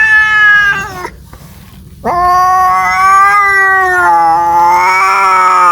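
A domestic cat caterwauling, a drawn-out mating yowl. One long yowl ends about a second in; after a short pause a second, longer yowl begins, wavering up and down in pitch.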